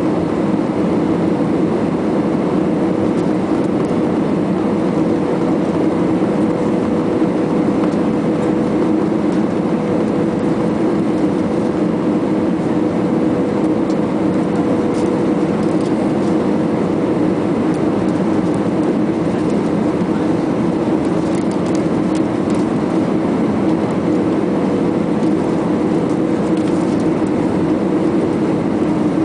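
Airbus A320 jet engines and airflow during landing: a steady rushing noise with a constant low hum that holds unchanged throughout.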